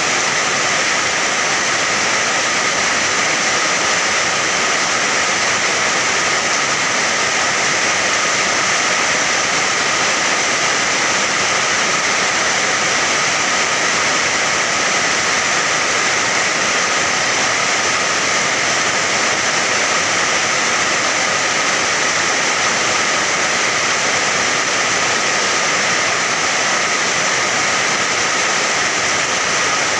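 Steady rain, a dense, even hiss that holds without a break.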